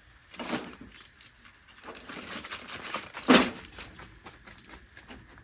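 Wooden drawer and its wooden pegs handled: a knock, a stretch of wood scraping, then a loud knock a little over three seconds in, with small clicks between.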